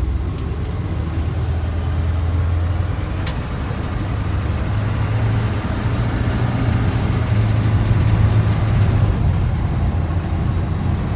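1955 Chevrolet 3200 3/4-ton truck's engine running on the move, with road noise. The engine note rises about four and a half seconds in and drops back near the end, with a single sharp click about three seconds in.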